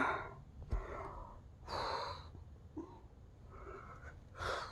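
A woman's heavy breaths: two long breathy exhalations, one about two seconds in and one near the end, with a small click a little under a second in.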